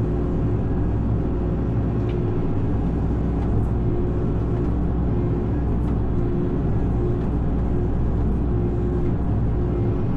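Excavator engine running steadily while its tree shear is worked, with a mid-pitched tone from the hydraulics that comes and goes several times.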